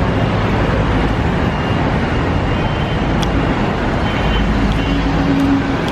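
Loud, steady street bustle, a dense wash of background noise with a few faint clicks and no clear voices.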